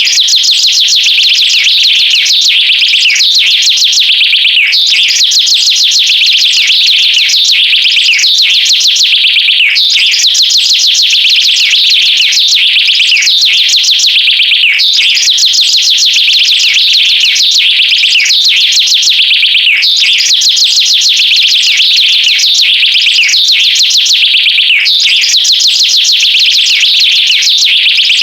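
High, rapid bird-like chirping played as a loop that repeats about every five seconds, with quick falling sweeps at each repeat.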